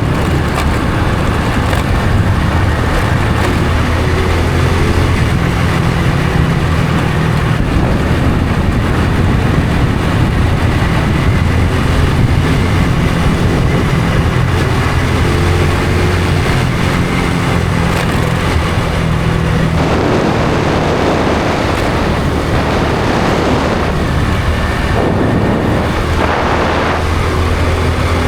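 Honda Supra X 125 FI's single-cylinder four-stroke engine running at a steady cruise while the motorcycle is ridden. A louder rushing noise swells in from about twenty seconds in.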